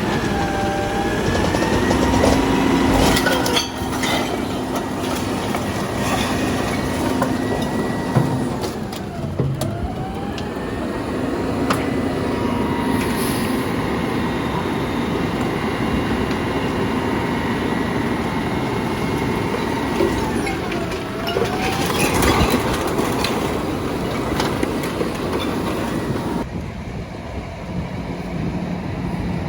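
Heavy truck machinery running with a steady high whine over engine noise. The whine dips in pitch and comes back up twice, with scattered metallic clanks.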